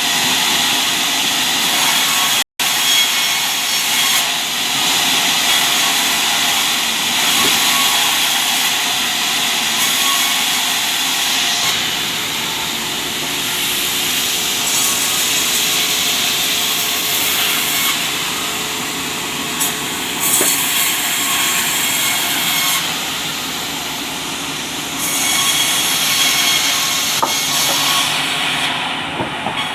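Sawmill circular saw ripping albasia wood into beams: a loud, continuous cutting noise, broken for an instant about two and a half seconds in.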